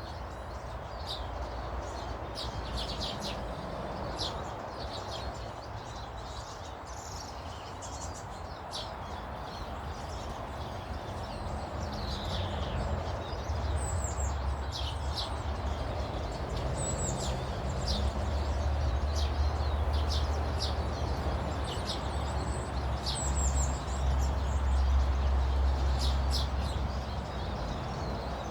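Small garden birds chirping and calling, short high chirps scattered throughout, over a steady low rumble that grows louder from about halfway through.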